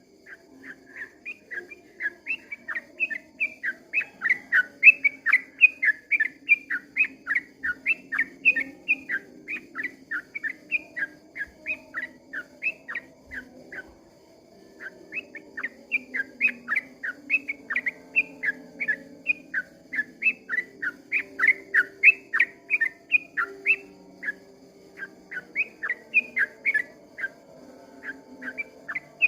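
Yellow-vented bulbul (trucukan) singing its long rolling song: a rapid run of short, clear whistled notes, about four a second, which breaks off briefly about halfway through and then starts again.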